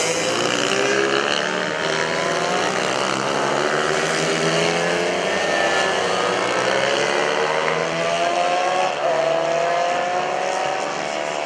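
Several racing mini bikes running at high revs together, their engine notes overlapping and rising and falling in pitch as they accelerate and shift gears.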